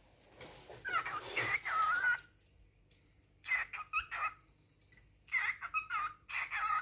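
Cockatiel chattering and warbling in three short bursts of gliding, wavering notes, the courtship singing of a male cockatiel.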